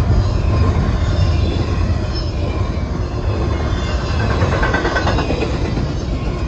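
Double-stack intermodal container train rolling past: a steady rumble of wheels and cars on the rails, with a brief metallic squeal about four and a half seconds in.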